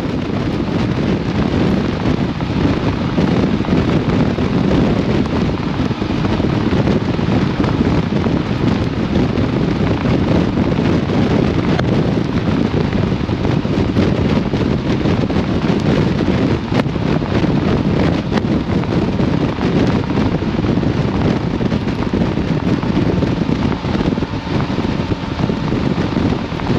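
Steady, loud wind noise rushing over a camera microphone on a moving motorcycle, with no clear engine note standing out.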